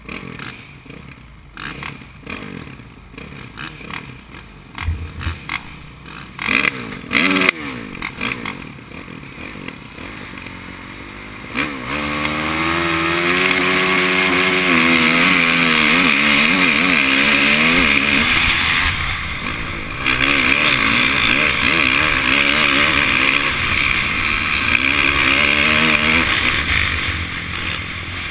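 Motocross bike engines, the rider's Honda CRF450 four-stroke among them, running unevenly at low revs with a few knocks, then about twelve seconds in rising sharply to full throttle and staying loud, the pitch climbing and dropping with gear changes and throttle as the bike races.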